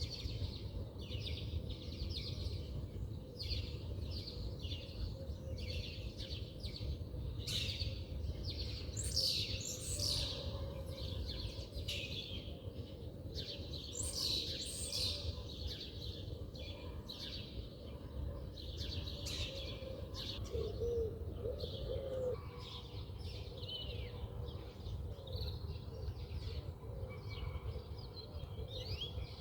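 Several birds chirping and singing, quick repeated chirps and trills throughout, over a steady low rumble of background noise.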